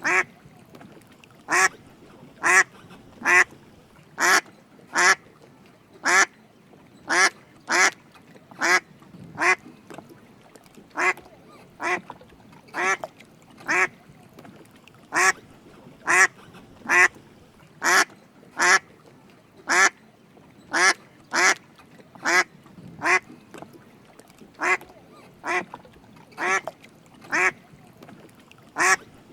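Drake mallard quacking: short quacks repeated about once a second in a long, even series, now and then two in quick succession.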